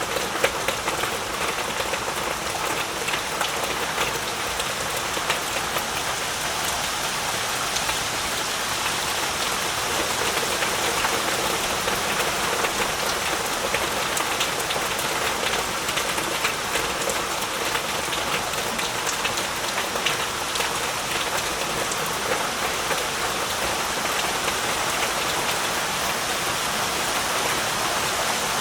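Heavy, steady rain, a dense hiss of drops falling on surfaces with many small distinct drop hits.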